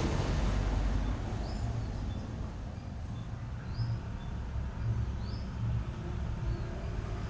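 A small bird chirping briefly, about once every second or so, over a steady low rumble.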